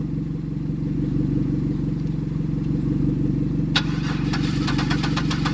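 A steady engine hum runs throughout. About two-thirds of the way in, a fast run of sharp clicks begins, several a second.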